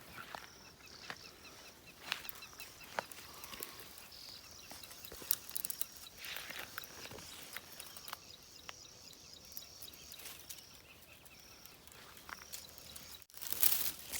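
Small birds chirping, short high notes repeated over and over, with scattered clicks and crackles of twigs and dry leaves underfoot.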